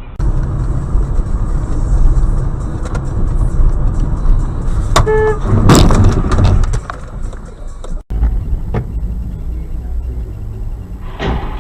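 Car driving noise, a steady low rumble of engine and road. About five seconds in a car horn gives a short honk, followed at once by a loud noisy burst lasting about a second. The sound drops out briefly near eight seconds and the driving rumble goes on.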